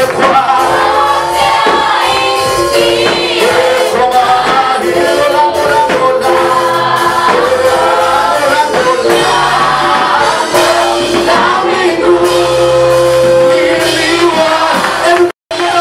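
Church praise team singing a Swahili praise song together over instrumental backing. The sound cuts out completely for a moment shortly before the end.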